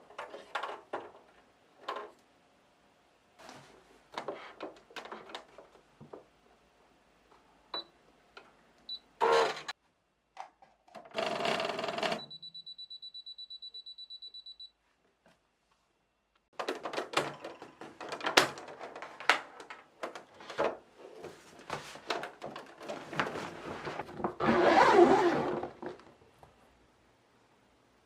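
Scattered clicks, knocks and rustling of objects being handled, with a steady high electronic beep lasting about three seconds midway.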